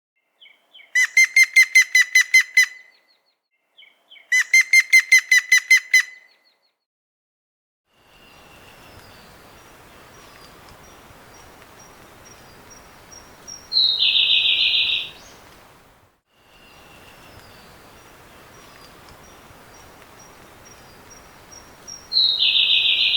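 Bird calls. First come two quick runs of about ten clear, evenly spaced notes each. Then, over steady background noise, a string of faint thin high notes leads into a loud, harsh, buzzy call about a second long, and this part is heard twice.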